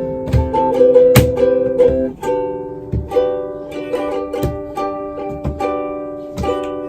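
Ukulele strummed in chords, a steady strumming pattern with a change of chord about two seconds in.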